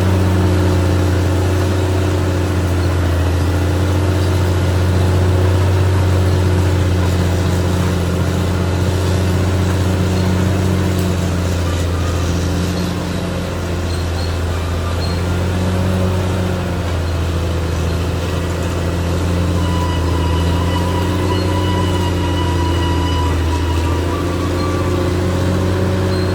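Caterpillar D6R XL bulldozer's diesel engine running steadily under work, a deep drone that eases and swells a little. A faint high squeal joins about two-thirds of the way in.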